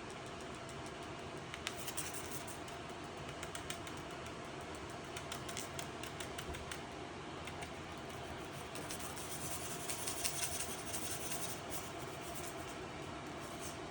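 A steady low hum with scattered light clicks and ticks, which come thicker about two-thirds of the way through.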